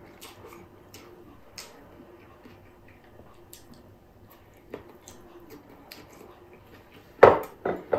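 Close-miked mukbang eating of a noodle salad and crab stick: soft wet chewing with small mouth clicks, then three loud wet smacks close together about seven seconds in. A faint steady hum sits underneath.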